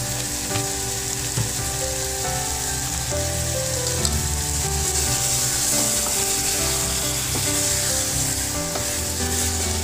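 Chopped tomatoes and spices sizzling steadily as they fry in an aluminium pot on a gas stove, with a wooden spatula stirring them near the end.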